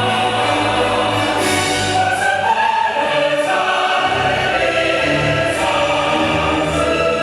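Orchestral show music with a choir singing, played loud over the park's outdoor speakers.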